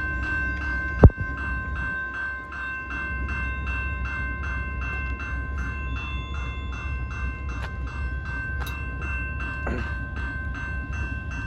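Railroad crossing warning bell ringing steadily about twice a second, over a low rumble from the train. A single sharp knock about a second in.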